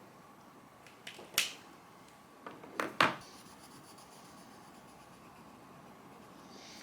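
A few short scratches and taps from drawing tools being handled, in two clusters about one and three seconds in, the last the loudest; otherwise quiet room tone.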